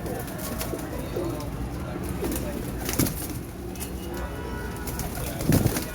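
Domestic pigeons cooing, several low, rolling coos one after another. There is a short sharp sound about three seconds in and a louder one near the end.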